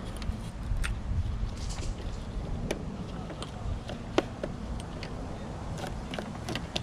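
Scattered small clicks and taps from hand work on the car's windshield frame, the clearest about a second in, near the middle and at the end, over a steady low rumble.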